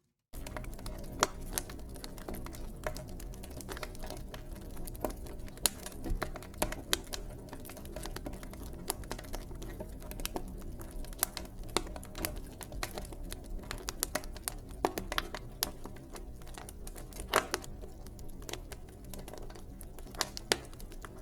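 Wood fire in a fireplace crackling: many irregular sharp pops and snaps over a steady low rumble of burning. The sound cuts in abruptly after a brief moment of silence at the very start.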